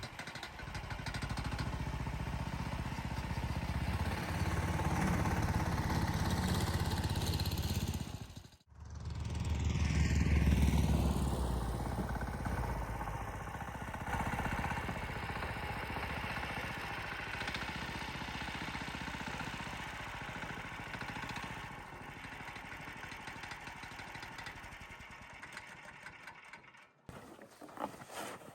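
A motor engine running steadily, as on the move. The sound drops out abruptly about nine seconds in, comes back louder for a moment, then breaks off shortly before the end.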